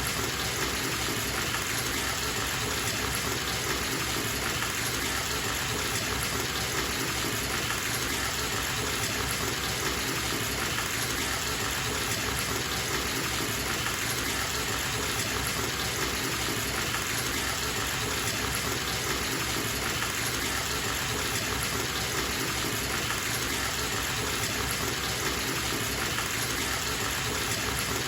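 Water gushing steadily from a tap into a filling bathtub, an even, unchanging rush.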